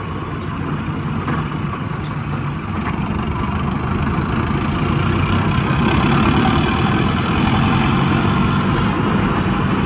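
Mahindra Arjun Novo tractor's freshly turbocharged diesel engine running under way, growing louder about halfway through. A faint high turbo whistle climbs in pitch as it builds.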